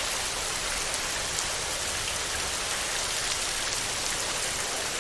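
Steady heavy rain drumming on a tin roof: a dense, even hiss with scattered sharper drop ticks.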